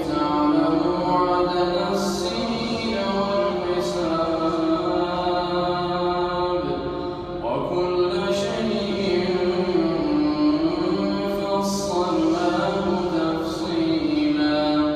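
A man's voice reciting the Quran in melodic tajweed, drawing out long, slowly bending notes, with a few sharp 's' sounds between phrases.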